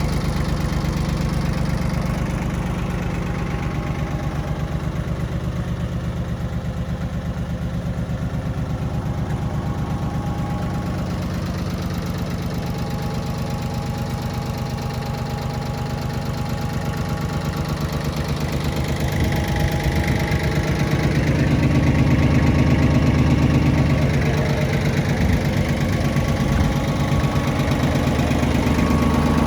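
Yanmar YM1720 compact tractor's diesel engine running steadily. It grows louder for a few seconds about two-thirds of the way in.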